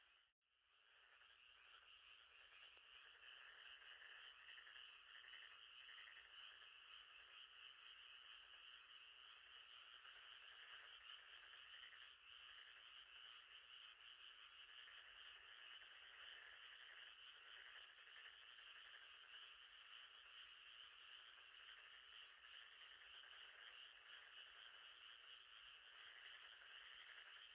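A faint, steady night chorus of frogs, a dense high trilling that goes on without a break. It cuts out for an instant just after the start and fades back in.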